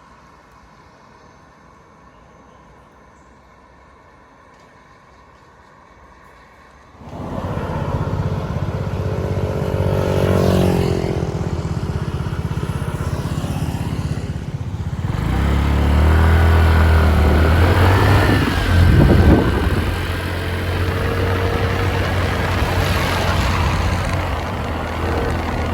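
A motorbike's engine running and revving under way, with wind and road noise. It comes in suddenly about seven seconds in, after a quiet stretch with a faint hum, and its pitch rises and falls with the throttle.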